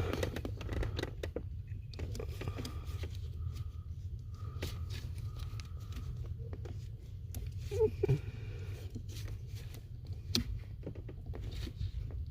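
Faint clicks and rustling of hands handling wiring and a connector plug, over a low steady hum.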